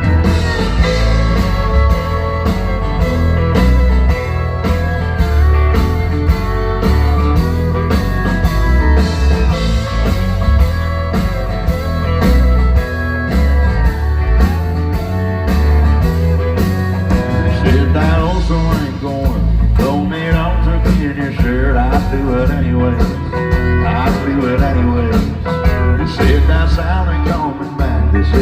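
Live country band playing an instrumental passage, with steady drums, heavy bass and electric guitar, and steel guitar and fiddle lines sliding in pitch through the second half.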